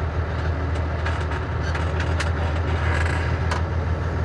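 Cummins ISM diesel engine of a 1999 International 9100i running at low revs as the clutch is eased out in first gear to pull away. It is a steady low drone with scattered short clicks and crackles.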